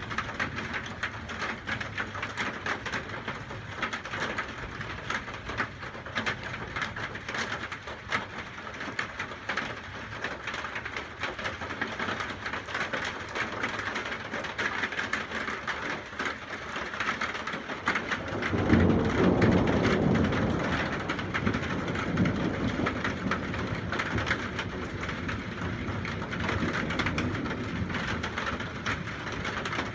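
Steady rain pattering throughout. A little past halfway a roll of thunder rumbles in suddenly, peaks for a couple of seconds and slowly dies away.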